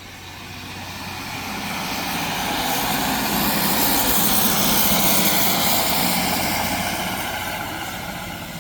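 Class 150 Sprinter diesel multiple unit pulling away and running past: its diesel engines and wheels on the rails swell to a peak about four to five seconds in, then fade as it draws away.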